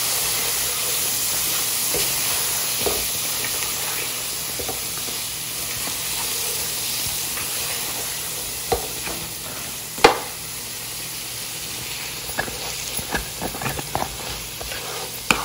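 Mutton pieces and ground spices sizzling in oil in a karahi as they are fried down (bhuna), stirred with a spatula that scrapes and knocks against the pan now and then. The sizzle slowly quietens, and one knock about ten seconds in is louder than the rest.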